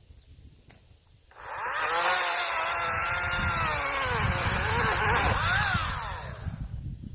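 Greenworks 40-volt battery chainsaw starting up about a second and a half in and cutting pine, its electric motor whine sagging in pitch under load and rising again before it stops near the end.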